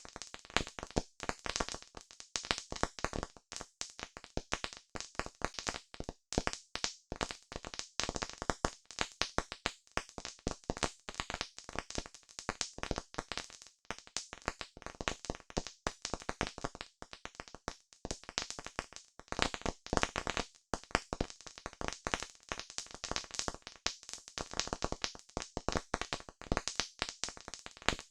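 Campfire crackling: wood burning with a dense, irregular run of sharp pops and snaps, several a second.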